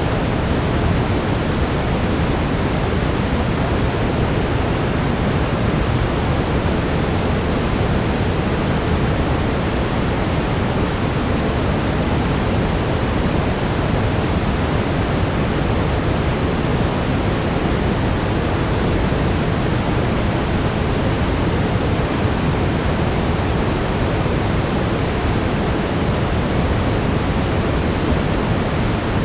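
Steady brown noise, an even, deep hiss weighted toward the low end, unchanging throughout.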